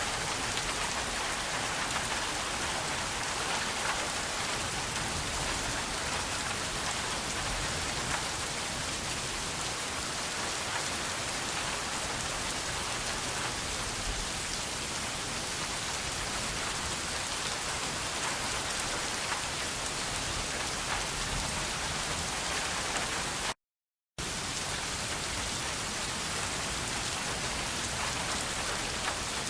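Steady rain falling, an even hiss of drops with no thunder. It cuts out completely for about half a second roughly three-quarters of the way through, then resumes unchanged.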